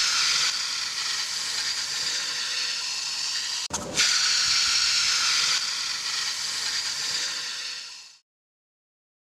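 Small 220 V electric high-pressure washer spraying a jet of water: a steady hiss, broken briefly near the middle, that fades out and stops about eight seconds in.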